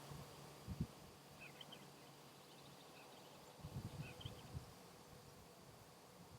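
Faint short chirps of eastern bluebirds, in small clusters about a second and a half in, around three seconds and about four seconds in, with a few low thumps in between.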